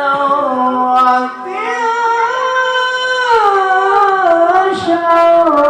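A qari's high voice reciting the Quran in melodic tilawah style, holding long ornamented notes that slowly bend in pitch without a break.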